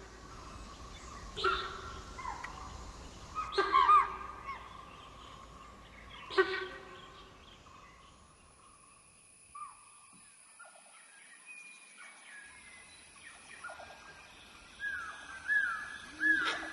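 Birds calling. A loud, harsh pitched call repeats about every two to three seconds in the first half. After a quieter stretch, short sweeping chirps and whistles build up near the end.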